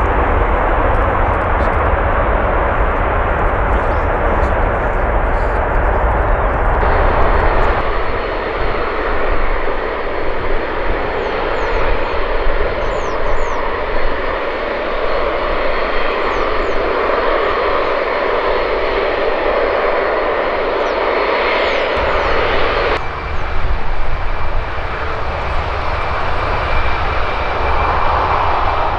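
Jet airliner engines running as planes move on or near the runway, a steady, loud rushing noise. Its character changes abruptly twice.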